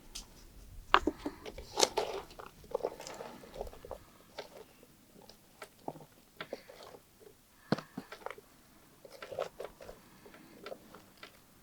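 Someone biting into and chewing crunchy food, with irregular crackling crunches that are loudest in the first two seconds.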